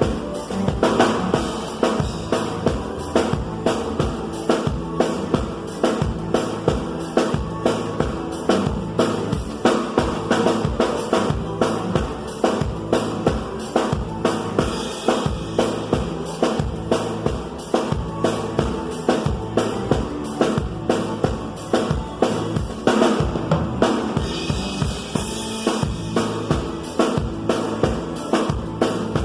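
Live band music led by a drum kit playing a steady, fast beat, with bass drum and snare strokes over a moving bass line.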